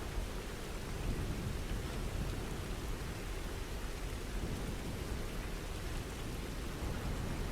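Steady rain falling, with a low thunder rumble underneath.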